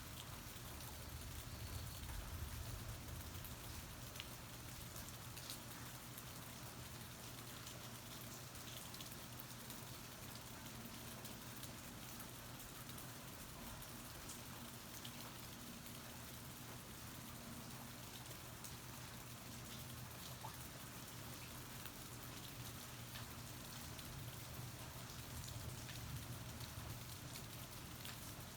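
Steady rain falling, heard from under a porch, with scattered drops ticking close by and a low steady hum beneath.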